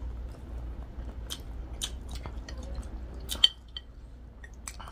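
Close-up eating sounds: chewing of noodles and fried chicken, with scattered wet mouth clicks and smacks, and one sharper, louder click about three and a half seconds in.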